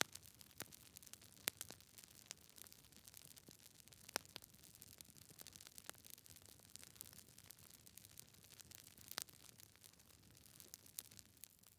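Wood fire crackling: irregular sharp pops and snaps from burning logs over a soft low hiss.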